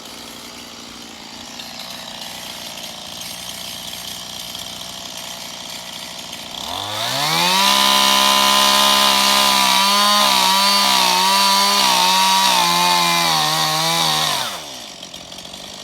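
Gas chainsaw idling, then revved up sharply to full throttle about seven seconds in and held for roughly seven seconds, its pitch wavering and dipping under load as it cuts a notch into a small pine. It drops back to idle near the end.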